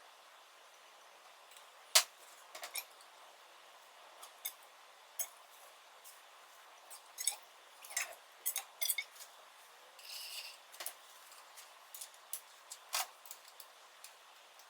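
Small metal parts and hand tools clinking and tapping in irregular sharp clicks, the loudest about two seconds in, with a brief rattle just after ten seconds.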